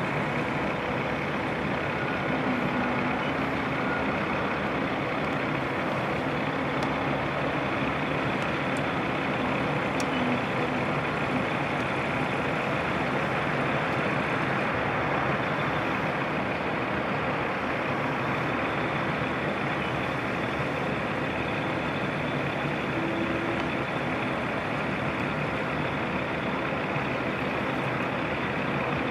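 Heavy diesel truck engines running steadily, a continuous low rumble.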